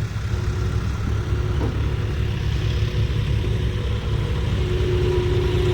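Tractor diesel engine running steadily with a low rumble.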